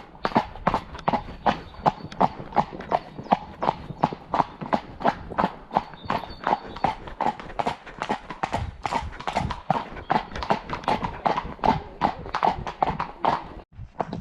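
Ridden horse's shod hooves clip-clopping steadily on a hard road surface, about four ringing strikes a second.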